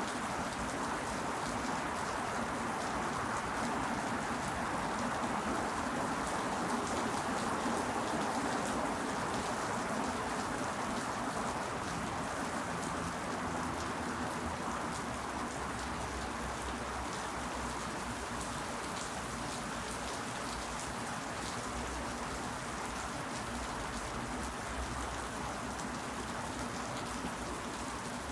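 Steady rain falling, an even hiss of many small drop hits.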